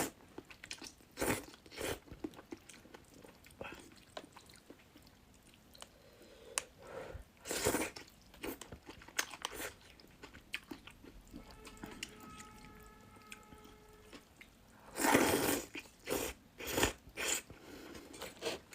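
Close-up eating of spicy river-snail rice noodles (luosifen) with tofu skin: irregular chewing and biting with some crunch, and louder mouthfuls about a third of the way in and again past the middle.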